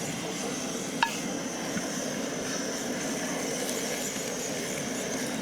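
Steady rumble of a safari vehicle driving, with one sharp knock about a second in.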